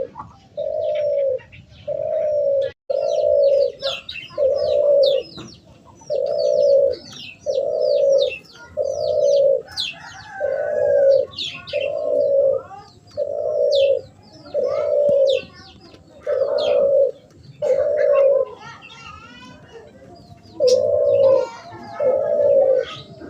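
A bird repeating a low, hooting coo, one held note roughly every second, pausing briefly near the end, while small birds chirp and twitter quickly above it.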